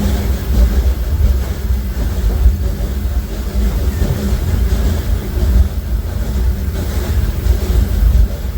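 Disneyland Railroad narrow-gauge steam train running along the track, heard from aboard: a loud, steady rumble and clatter of the cars' wheels on the rails.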